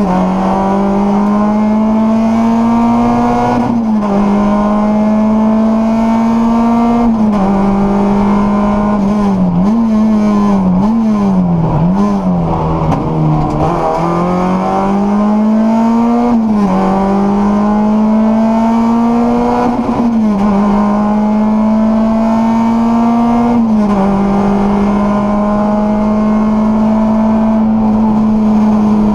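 Rally car engine heard from inside the cockpit at high revs, climbing through the gears with a sharp drop in pitch at each upshift. Twice early on, then three more times after the middle, where the revs fall and rise several times in quick succession. It holds steady revs over the last few seconds.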